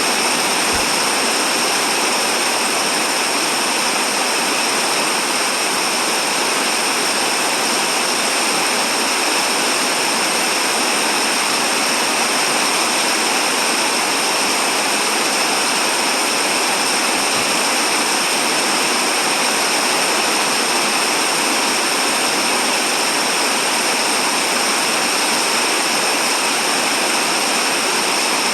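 Heavy rain falling, a loud steady hiss that does not change.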